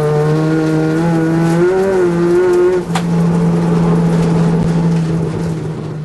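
Rally car engine running hard at speed, heard from inside the cabin, with a steady low drone under a higher pitched whine that wavers. About three seconds in, the higher whine stops with a sharp click.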